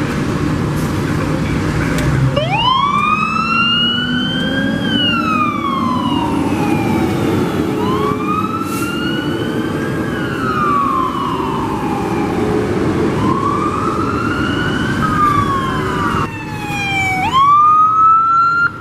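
Fire engine siren on a 2011 Spartan/Rosenbauer pumper wailing. It starts about two seconds in and rises and falls in slow cycles of about five seconds, with a quick drop and sharp rise near the end. The truck's engine and road noise run underneath.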